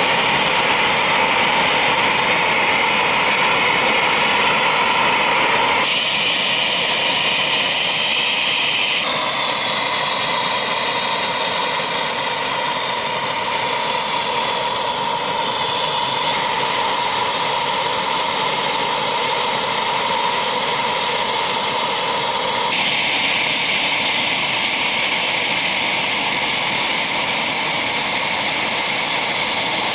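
Military jet engines running on the ground with a steady high turbine whine over a loud rush; the sound jumps abruptly four times as different jets take over.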